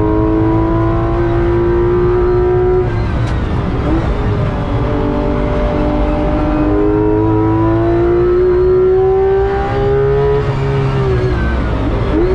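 Porsche 991.2 GT3 RS's naturally aspirated 4.0-litre flat-six heard from inside the cabin under hard acceleration, its pitch rising for about three seconds before easing off. It then pulls through a long rising climb of about six seconds and falls away near the end as the driver lifts off.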